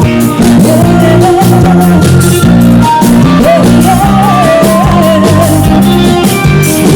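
Arrocha band playing loudly, a passage without sung words: a gliding, wavering lead melody over steady bass notes and a regular drum beat.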